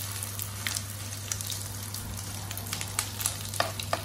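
Rice-and-vegetable kebab patties shallow-frying in oil in a non-stick pan, sizzling steadily with scattered sharp crackles and pops. A steady low hum runs underneath.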